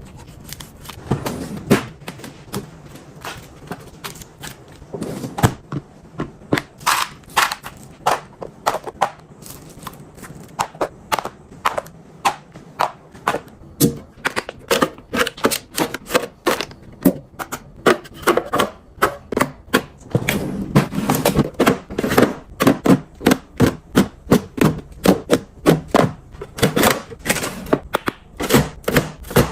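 Irregular clicks, taps and knocks of hard plastic containers and packaging being handled and set down while a fridge is organised, turning into a quick run of about three clicks a second in the last third.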